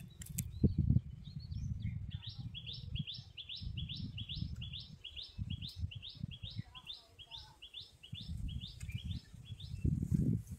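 A small bird calling the same short, high note over and over, about three notes a second, starting a couple of seconds in and stopping shortly before the end. Underneath runs an uneven low rumble, with a few clicks near the start.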